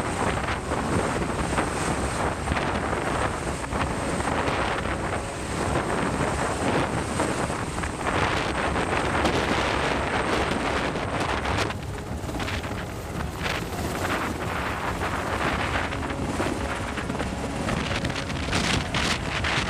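Wind buffeting the microphone over a steady rushing noise, like open water or a vessel under way. The sound swells and eases in gusts and changes character about twelve seconds in.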